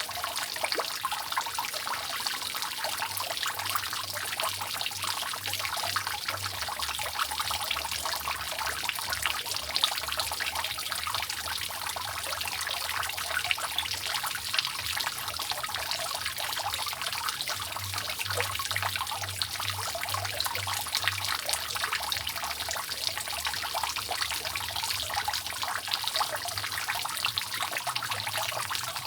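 Rainwater dripping and trickling steadily from a roof, a dense patter of many small drops with no pause.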